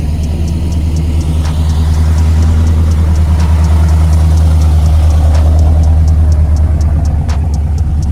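Car engine idling close by, a loud, steady, deep rumble, with a faint high ticking about four times a second over it.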